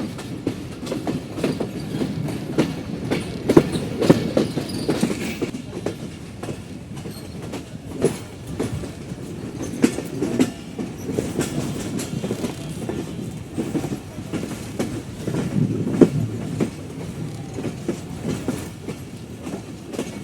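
Titumir Express passenger train running on the rails, heard from aboard. A steady rumble of the wheels is broken by repeated irregular clacks as the wheels pass over rail joints, with a few heavier clacks along the way.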